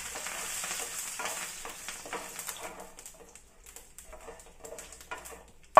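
Mustard seeds and curry leaves sizzling and crackling in hot oil in a pan as they are sautéed. The sizzle fades about halfway through, leaving scattered pops.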